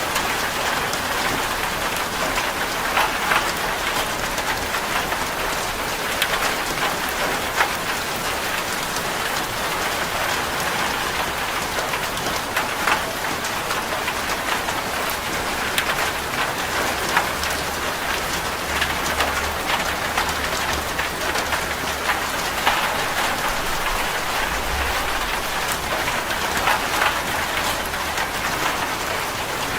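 Steady heavy rain drumming on a corrugated zinc roof, a dense patter with many single drops ticking out above it.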